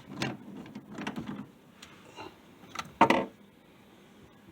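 Bathroom sink drain pipes and P-trap being handled as they are taken apart: a few short knocks and scrapes, the loudest a sharp knock about three seconds in.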